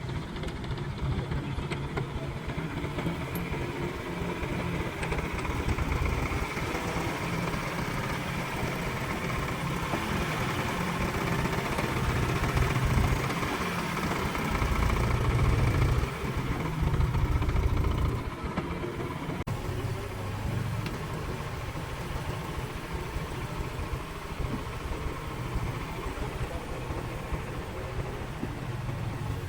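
Truck engine running steadily, getting louder for several seconds around the middle before settling back.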